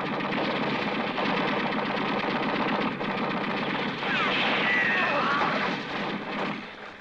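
Sustained .50-calibre machine-gun fire from a helicopter strafing, a rapid, unbroken stream of shots. Some higher sliding sounds come in about four seconds in, and the firing dies down a little before the end.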